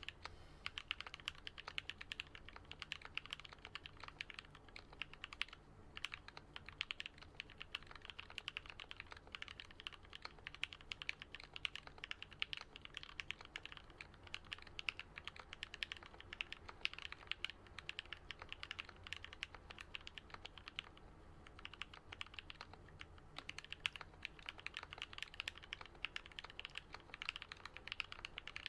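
Fast, steady typing on a Switch Couture Alice-layout custom mechanical keyboard with lubed and filmed Gateron Yellow linear switches, giving a deep "thock" on each keystroke. There are brief pauses about six seconds in and again around twenty-one seconds in.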